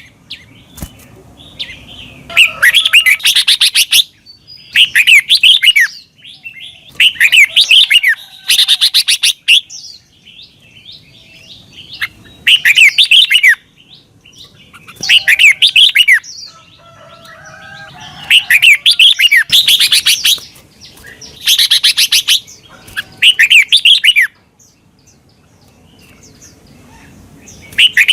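Red-whiskered bulbul singing short, bright warbled phrases of about a second each, repeated some nine times with pauses of one to two seconds between.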